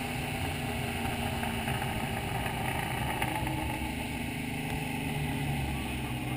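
Fox-body Mustang's small-block V8 running steadily at low engine speed, heard from inside the cabin, with a slight rise in pitch about two-thirds of the way through.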